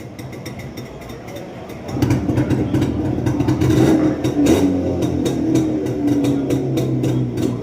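Twin-cylinder Jawa motorcycle engine running. It gets clearly louder about two seconds in and then runs steadily, with a slight sag in pitch midway.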